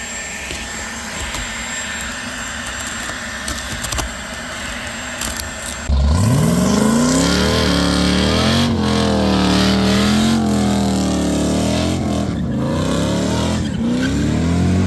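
A car engine revving: it comes in suddenly about six seconds in, its pitch rising and then rising and falling with the throttle. The first six seconds hold only a steady low background noise.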